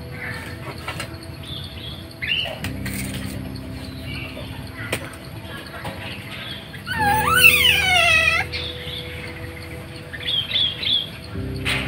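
Birds chirping in scattered short calls, with one loud wavering call that slides up and down for about a second and a half about seven seconds in.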